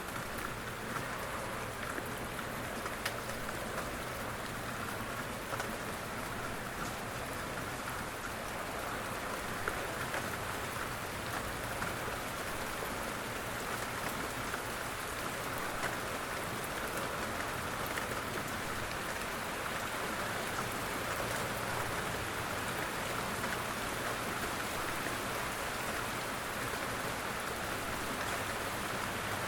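Steady rain falling, an even patter of drops on a surface.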